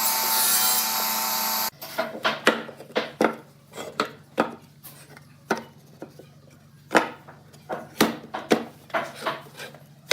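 A power tool's motor runs at a steady pitch and stops abruptly within the first two seconds. Then come irregular, sharp scraping and rubbing strokes of a hand tool working wood, roughly one or two a second with short pauses between them.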